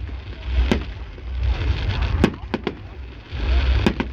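Fireworks going off: about five sharp bangs at uneven intervals, over a steady low rumble and hiss.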